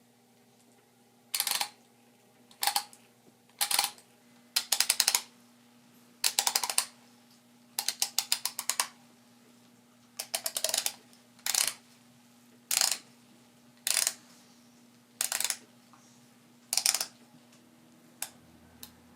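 VSSL Java hand coffee grinder giving rapid ratcheting clicks in about a dozen short bursts, roughly one every second or so, with two fainter clicks near the end.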